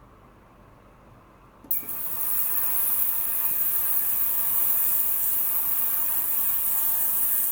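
Ultrasonic cleaner switched on about two seconds in, then running with a steady high-pitched hiss from the bath.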